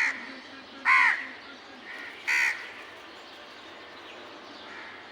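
Crows cawing: three loud, harsh single caws in the first two and a half seconds, with fainter calls from other crows between them.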